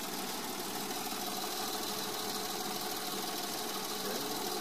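2008 Toyota Yaris 1.0's three-cylinder petrol engine idling steadily.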